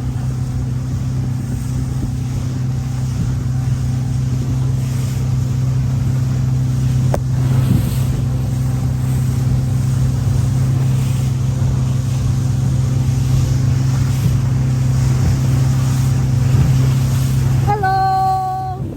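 Small rented motorboat's engine running steadily underway, a constant low hum over the rush of water and wind. A short held tone sounds near the end.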